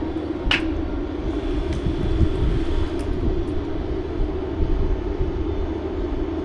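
Engine running steadily with a low drone, likely the aerial lift or other tree-service machinery on site. About half a second in there is a brief sharp high squeak.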